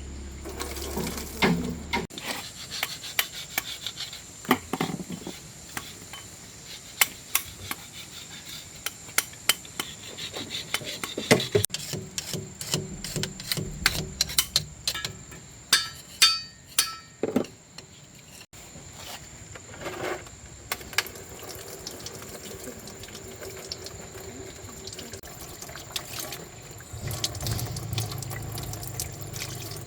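Irregular clinks and knocks of metal parts and tools being handled, with a brief ringing of struck metal partway through and water splashing or running.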